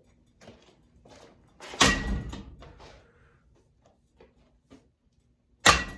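Two loud, sharp strikes on a running ceiling fan, about four seconds apart, each with a brief ring as the fan is hit during its smashing.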